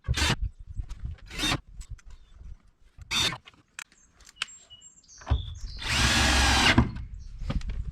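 Power drill running in one steady burst of about a second, working on the portable toilet's plastic, with short knocks and clatters of handling before it.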